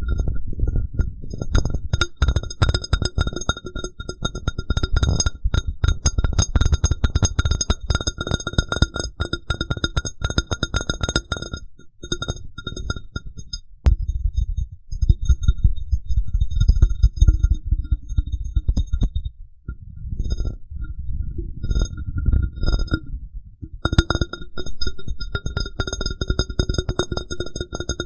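Glass cup tapped and rubbed rapidly close to the microphone: quick clicks and dull low thuds, with the glass ringing in several steady high tones. There are brief pauses about twelve seconds in and again near twenty seconds.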